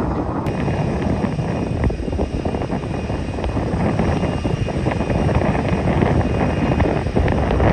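Boeing 787-8 airliner's jet engines running steadily as it comes in to land, with a faint high whine over the noise and wind buffeting the microphone.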